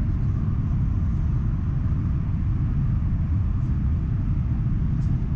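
Class 395 Javelin electric train running on High Speed 1, heard from inside the carriage: a steady low rumble with no change in level.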